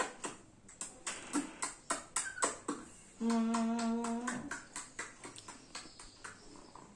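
A string of soft clicks and smacks, with one steady hummed note held for about a second near the middle.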